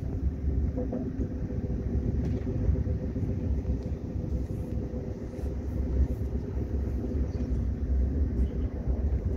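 KTX high-speed train running: a steady low rumble with a faint steady hum.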